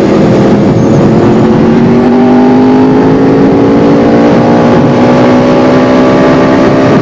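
Yamaha R1's inline-four engine running under light, steady throttle, its pitch rising slowly as the bike gently gains speed, with wind rushing over the microphone.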